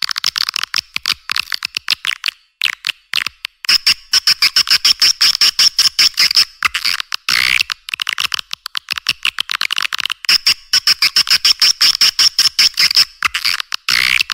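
Edible-nest swiftlet calls, the kind played as a lure sound for swiftlet houses: fast, dense, high-pitched chirping and clicking trills in long runs, with brief breaks about two and a half seconds in, midway, and near the end.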